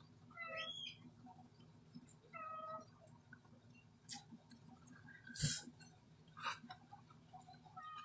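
A cat meowing: three short calls, the first bending in pitch. Sharp clicks fall between the calls, the loudest about halfway through.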